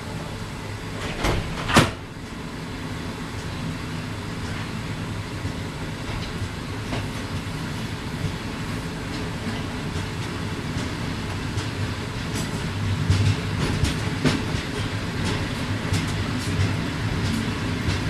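Regional passenger train rolling slowly out of a station, heard from its rear cab: a steady low rumble that grows louder as it gathers speed, with wheels clicking over rail joints and points. A single sharp knock comes about two seconds in.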